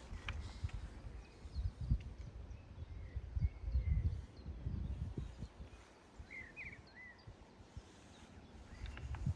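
Wind buffeting the microphone in gusts, loudest about two seconds and four seconds in, with faint short bird chirps scattered through and a quick cluster of them near seven seconds.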